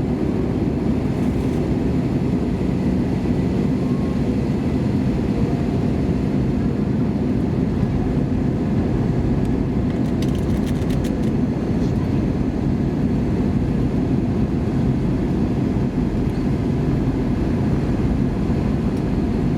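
Steady cabin noise inside an Airbus A320 airliner: an even low rumble from the engines and the airflow, with a faint steady hum over it.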